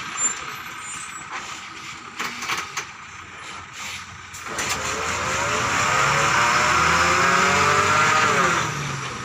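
Truck engine revving hard under load: after a few scattered knocks, the engine note climbs steadily for several seconds, holds at its loudest, then falls away near the end.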